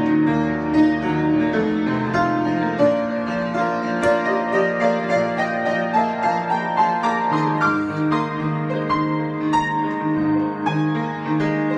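Solo piano improvisation: held chords in the bass with a running line of quick higher notes over them.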